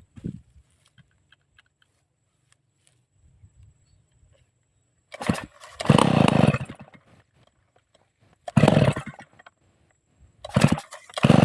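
Two-stroke chainsaw engine being pull-started, firing in three short bursts of a second or so that each die out again.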